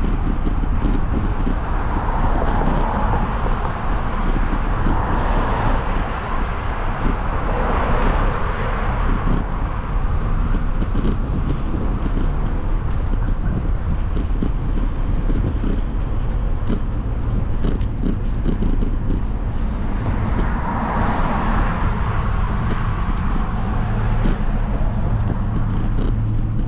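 Steady road and wind noise from riding, with traffic sounds. It swells twice, once early on and again about three-quarters of the way through.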